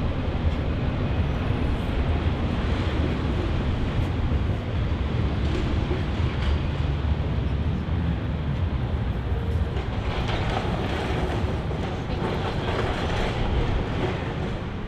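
Electric suburban train running across an elevated railway viaduct: a steady low rumble mixed with city street noise, growing busier with sharper rattling in the last few seconds.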